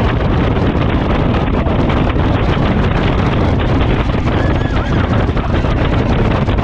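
Wind buffeting the microphone over the steady rush of a jet boat running at speed, its twin Chevy big-block V8 engines and the water beneath it.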